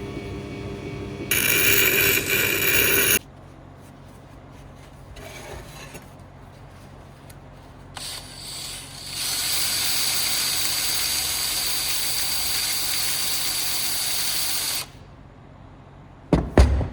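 A power tool grinding steel in two loud spells, one short burst about a second in and a longer steady run from about nine to fifteen seconds, with a motor hum before the first. Two sharp knocks follow near the end.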